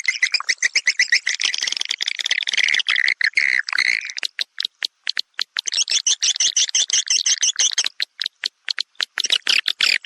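Recorded swiftlet lure call: dense, high twittering chirps from a crowd of swiftlets. Twice, about four seconds in and again near the end, the twittering thins into runs of rapid dry clicks, several a second.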